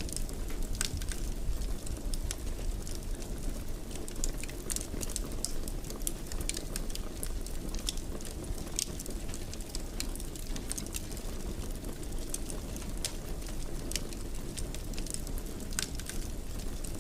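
Fire in a fireplace crackling: a steady low rumble of flames with frequent irregular sharp pops and snaps.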